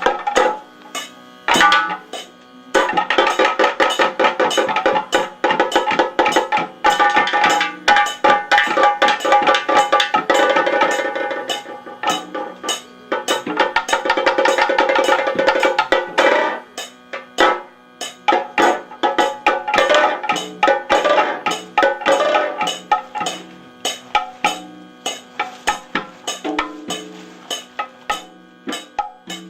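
Kathakali percussion music: rapid drum strokes with ringing metallic tones. The playing is dense through the first half and thins out into more widely spaced strokes near the end.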